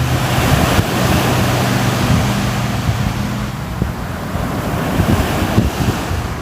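Ocean surf washing in a steady rush, swelling about a second in and easing again, with wind buffeting the microphone. A low steady hum sits under it for the first half and then fades.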